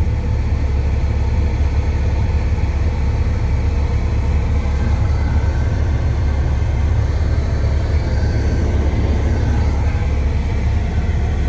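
Steady low rumble of a semi truck's diesel engine idling, heard from inside the cab.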